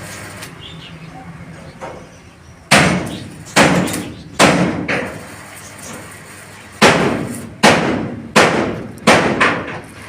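Seven sharp knocks, each with a short ringing tail, about one every three-quarters of a second: a group of three, a pause of about two seconds, then a group of four.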